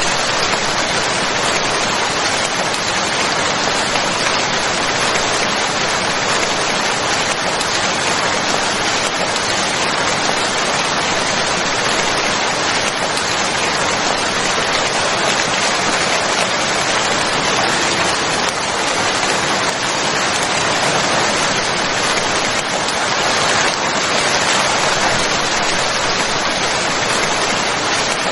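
Steady rain falling, an even, dense hiss that holds without let-up.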